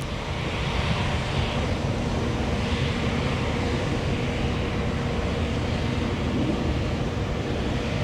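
Jet airliner engines during a departure: a steady rush of engine noise with a faint low hum underneath, starting abruptly.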